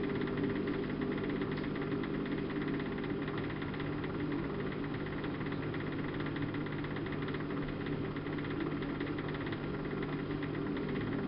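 Siemens Siwamat IQ-series washing machine running at a steady speed, its drum motor giving an even hum with a fine rapid ripple.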